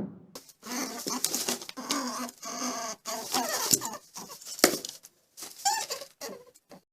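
Chickens clucking: a run of short, separate calls with brief pauses between them.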